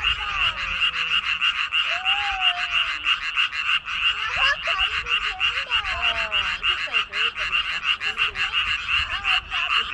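A dense chorus of many frogs calling together, a fast steady pulsing with no let-up, with fainter gliding calls below it.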